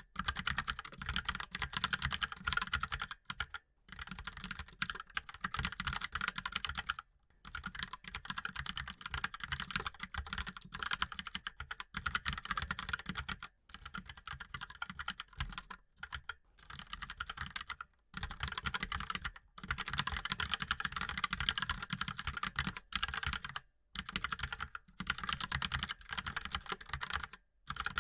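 Mechanical keyboard being typed on continuously: fast, dense key clicks in runs of a few seconds, each broken by a brief pause.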